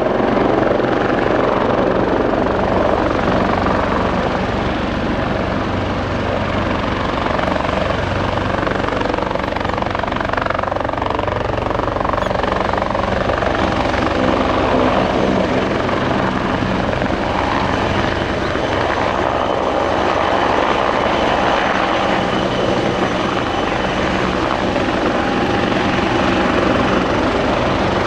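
Bell 430 twin-turbine helicopter running steadily, its turbine whine and rotor noise holding at a constant level throughout.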